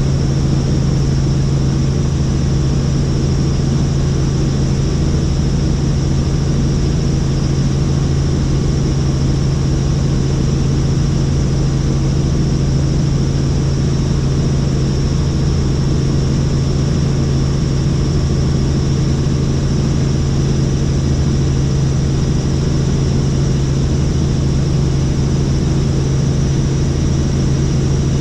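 Helicopter in steady flight: an unbroken drone of engine and rotor with a strong low hum and a faint high whine.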